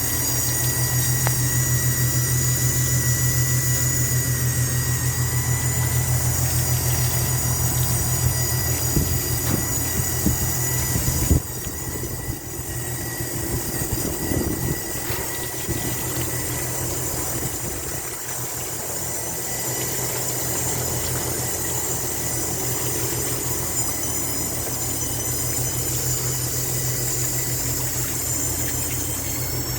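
Goodman AC condenser running with a steady low hum and a high-pitched squealing whine over it, with a knock about eleven seconds in after which the whine dips briefly. The owner suspects the noise comes from the valving or compressor rather than the fan.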